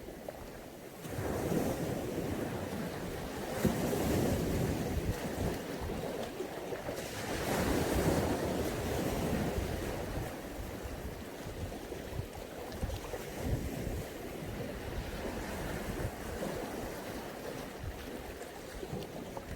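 Mediterranean Sea waves breaking and washing up the shore. They swell about a second and a half in and again most strongly around seven to nine seconds, then settle to a lower, steady wash.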